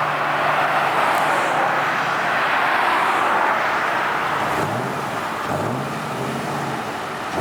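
Loud car engine and exhaust noise, with a dense rushing sound for the first few seconds; then the engine revs up twice in quick succession, rising in pitch.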